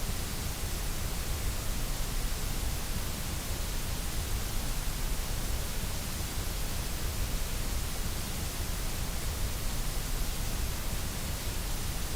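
White noise: a steady, even hiss that does not change.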